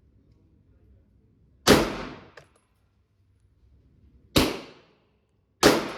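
Three pistol shots: one a little under two seconds in, then two more near the end about a second and a quarter apart, each sharp crack trailing off in a short echo.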